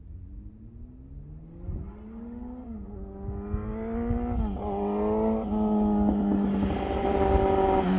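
Yamaha R6 inline-four sportbike engine running through a Two Brothers slip-on exhaust, growing louder as it approaches. The engine revs up and drops back with gear changes about three and four and a half seconds in, then holds a steady high note.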